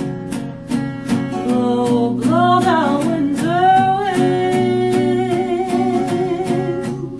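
A solo voice singing a slow melody with some vibrato, over an acoustic guitar picked in a steady, even pattern.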